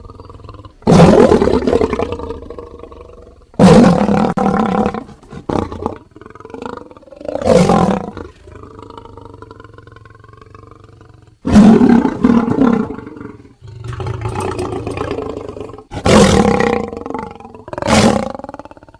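Lion roaring: a string of about six loud roars, each starting suddenly and trailing off, with quieter, lower calls in the gaps between them.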